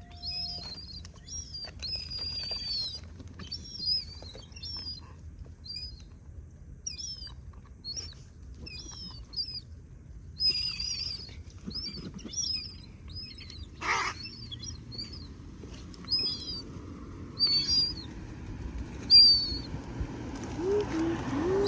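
Birds calling: a steady series of short, high-pitched chirps, roughly two a second, with one sharp knock about two-thirds of the way through.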